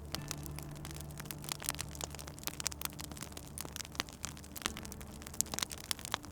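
Wood fire crackling, with many small sharp pops and snaps scattered irregularly over a soft hiss. Low steady held tones sit underneath.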